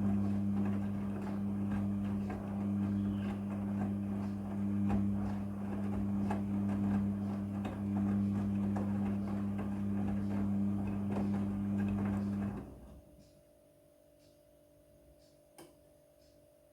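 Front-loading washing machine running with a steady hum and a rough churning noise. The sound cuts off suddenly about three-quarters of the way through, leaving only a faint high tone and a single click.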